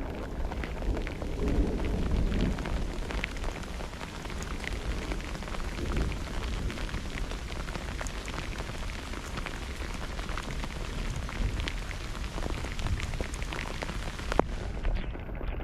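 Steady rain falling in a thunderstorm, with many small drop hits over a low rumble that swells briefly about two seconds in. One sharp tick stands out near the end.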